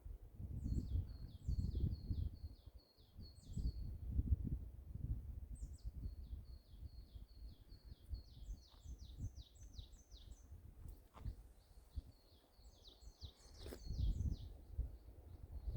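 A songbird singing in several trilled phrases, each a rapid run of short high notes, over gusts of wind rumbling on the microphone.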